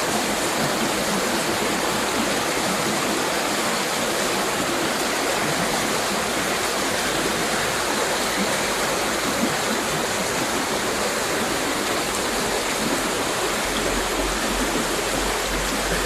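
Mountain river water rushing in a steady, unbroken stream.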